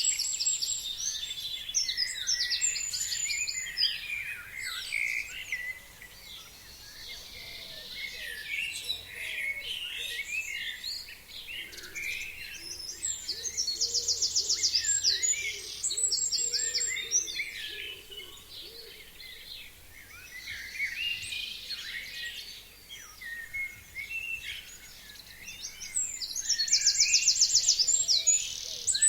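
A chorus of forest songbirds singing and calling over one another. One bird sings a loud, fast trill twice, about twelve seconds apart.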